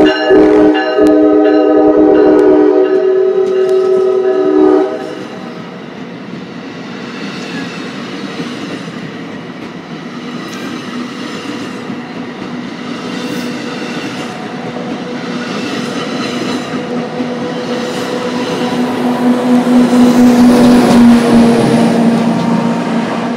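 NJ Transit commuter train passing close by: its multi-tone horn blows for about the first five seconds, then the bilevel coaches rumble past with a rhythmic clack of wheels over rail joints. The sound swells again with a steady low drone near the end as the tail of the train goes by, then fades.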